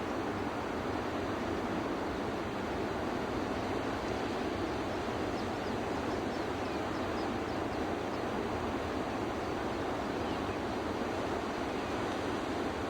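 Steady rushing water noise at an even level, without distinct breaking waves.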